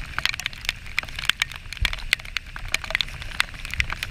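Heavy rain with drops striking right by the microphone: a dense, irregular patter of sharp taps and clicks, with a few duller low thumps.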